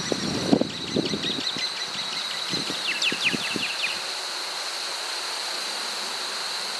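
Outdoor ambience around a beehive: a small bird sings a quick series of short falling chirps over the first four seconds, over a steady high-pitched insect drone, with a few soft knocks from handling hive frames.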